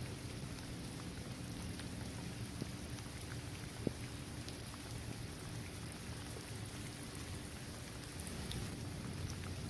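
Steady rain falling on a paved basketball court, trees and grass, with scattered single drop taps and one sharper drop hit about four seconds in.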